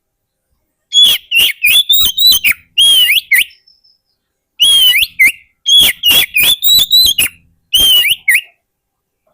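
Oriental magpie-robin singing: two loud phrases of quick, clear whistled notes that slide up and down, with a pause of about a second between them.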